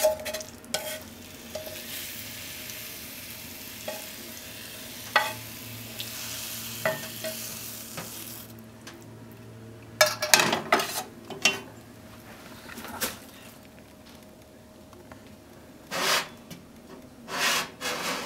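Stir-fried scallop frills sizzling in a pan, with utensils stirring, then sharp clicks and knocks of utensils against the pan and a ceramic bowl as the frills are served out and arranged.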